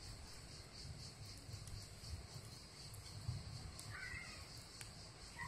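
Faint outdoor ambience: a steady high insect buzz, with a distant bird calling briefly about four seconds in and again near the end.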